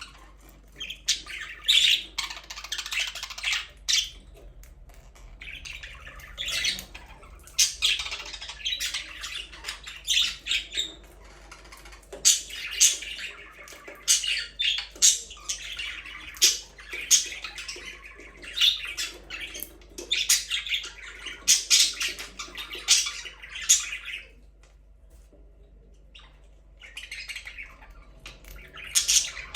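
Budgerigars chirping and squawking, many short high calls overlapping in quick bursts, with a lull of a few seconds near the end.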